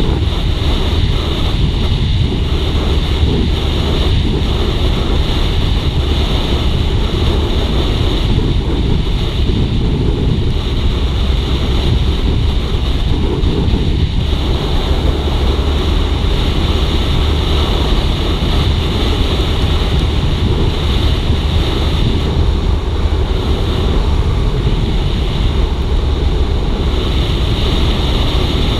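Steady wind rush buffeting the microphone on a moving motorcycle, with the Suzuki GSX-R150's single-cylinder engine running under it at a steady speed.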